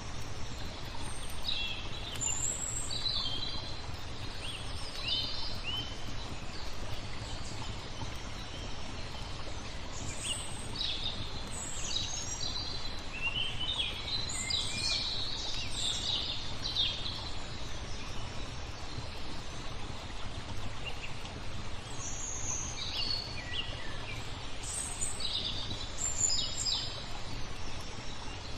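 Small songbirds chirping and twittering in several bursts of quick high calls over a steady background rush of flowing water and low rumble.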